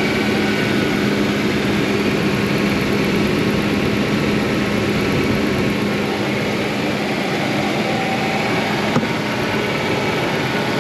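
1999 Ford Ranger's 3.0L V6 engine idling steadily with the hood open, warming up on its freshly refilled cooling system after the hot-water inlet elbow was replaced. A faint click about nine seconds in.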